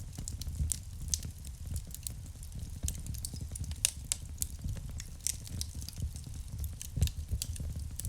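Wood fire crackling in a fireplace: irregular sharp pops and snaps over a low, fluttering rumble of the flames, with louder pops about four seconds in and again near the end.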